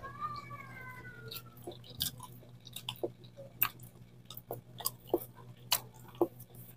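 Close-up wet chewing and mouth clicks of someone eating a soft ripe banana, irregular smacks a few times a second.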